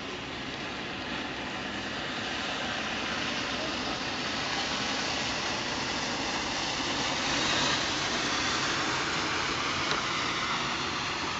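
A vehicle passing on a wet street: a wide hiss of noise that swells slowly to a peak about two-thirds of the way through, then eases off, with a faint click near the end.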